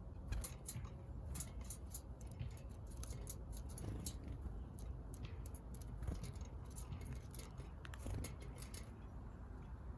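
Small birds pecking at seed, making rapid, irregular sharp clicks and taps that thin out near the end, over a low steady rumble.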